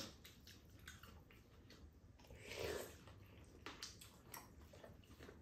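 Faint eating sounds of two people eating buldak noodles: quiet chewing and mouth sounds, one soft longer swell about halfway, and scattered light clicks of chopsticks and a spoon against bowls.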